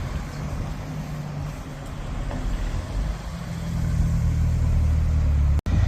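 A car engine running with a steady low hum, getting louder about halfway through, then cut off abruptly just before the end.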